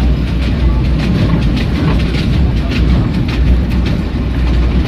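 Passenger train coach running along the track, heard from inside: a steady loud low rumble with scattered light clicks from the wheels and rails.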